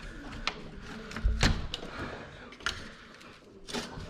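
Scattered knocks and clanks of hard objects being handled, the loudest with a low thud about one and a half seconds in and another knock shortly before the end.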